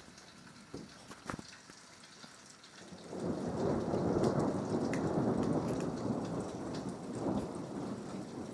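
Rain falling with scattered drop ticks, then about three seconds in a long roll of thunder builds up, peaks, and slowly rumbles away. It is the thunder following a lightning flash seen a few seconds earlier.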